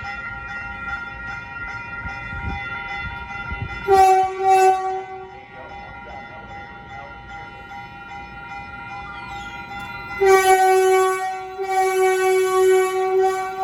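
Electric multiple-unit train horn (Caltrain Stadler KISS EMU) sounding two short blasts about four seconds in, then a long, loud blast from about ten seconds in that carries on. A steady ringing tone runs underneath.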